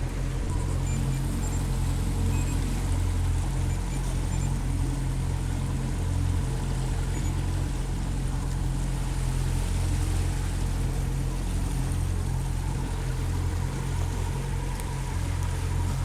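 Boat motor running steadily at low speed, with the rush of water around the hull.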